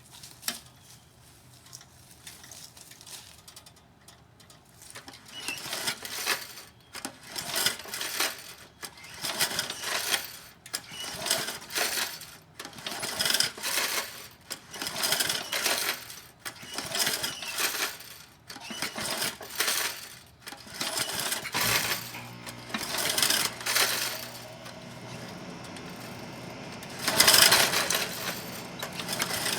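Single-cylinder Briggs & Stratton lawnmower engine being pull-started again and again, about one pull a second, on its first start after a rebuild with new piston, rings and valves; about two-thirds of the way through it catches and runs unevenly.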